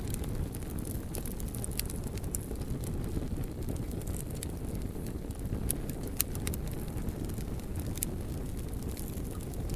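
Fire crackling: scattered sharp pops and snaps over a steady low rumble, with one louder pop about six seconds in.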